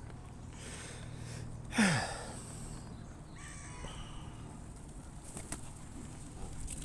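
Birds calling around a feeding spot: one short, loud call just under two seconds in, falling in pitch, then fainter calls a couple of seconds later.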